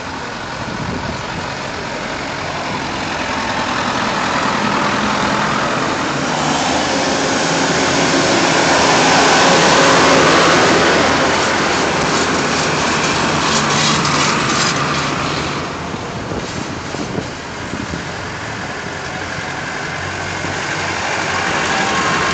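Tractor engine running as it passes close by, getting louder to a peak about halfway through and then fading, with another tractor coming up near the end.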